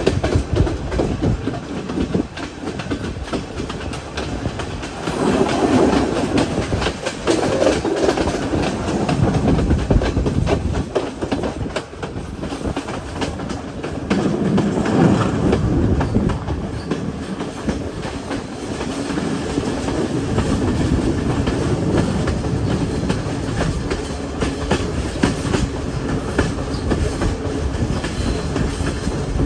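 Train running along the line, its wheels clattering over the rail joints in a steady clickety-clack, swelling louder for a few seconds at a time.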